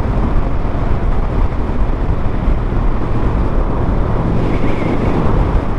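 Motorcycle engine running under way, with a steady rush of wind over the microphone.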